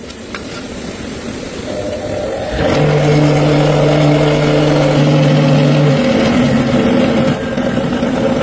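A motor starts running about two and a half seconds in and holds a steady pitch, easing down slightly near the end.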